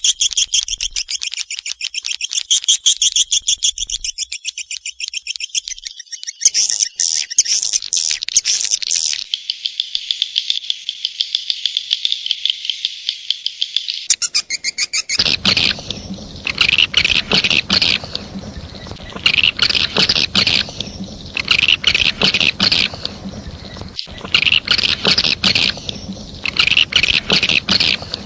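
Swiftlet lure call: a dense, fast stream of high, clicking twitters of swiftlets, repeated evenly. About halfway through, a rustling background comes in and the twitters come in bursts roughly every second and a half.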